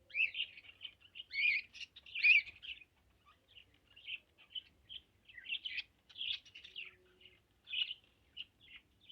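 Small cage birds chirping: a quick run of short, high calls, loudest in the first three seconds, then continuing more thinly after a brief lull.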